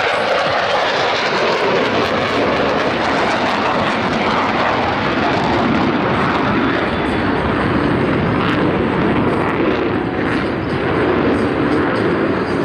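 Loud, steady jet engine noise from Blue Angels F/A-18 Super Hornet jets in flight.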